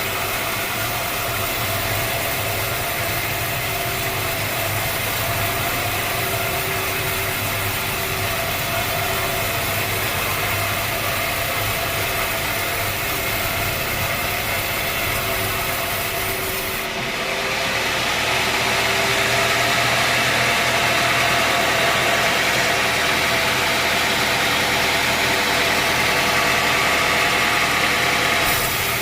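Sawmill machinery running with a steady engine drone. About two-thirds of the way through, the sound changes suddenly to a brighter, slightly louder machine noise.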